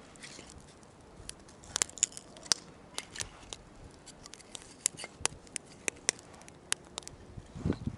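Wood campfire crackling, with irregular sharp pops and snaps from the burning wood. Near the end there is a low thump.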